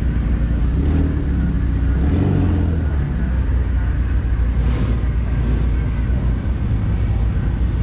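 Car engine running with a deep, steady drone; its pitch shifts briefly about two seconds in.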